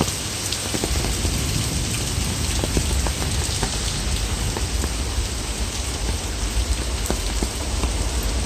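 Heavy downpour hammering down, a dense even hiss with many scattered drop ticks. From about a second in, a low rumble builds underneath.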